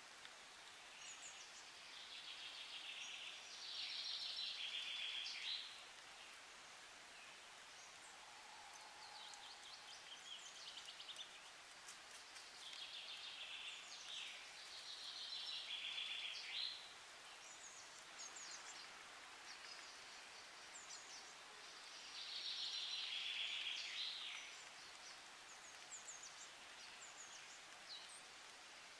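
A small bird singing in repeated short phrases, three louder stretches of song spread through, over a faint steady hiss.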